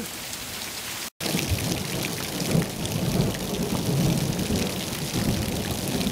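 Heavy rain pouring down and splashing hard, with a low rumble of thunder beneath it in a thunderstorm. The sound drops out for a moment about a second in, then comes back louder.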